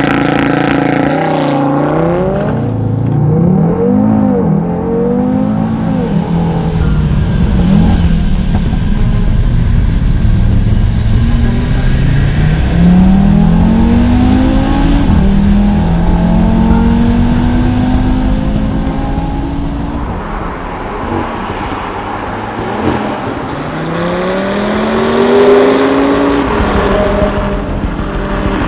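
Audi TT RS's turbocharged five-cylinder engine accelerating hard through the gears, its pitch rising and then dropping at each upshift, several times over.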